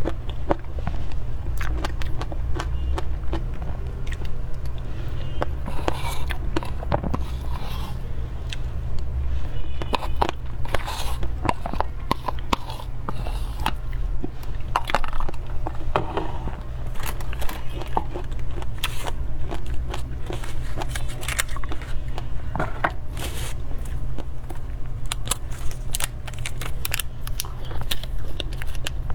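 Close-miked eating sounds of a person chewing and biting cream cake: many small wet clicks and mouth sounds, over a steady low hum.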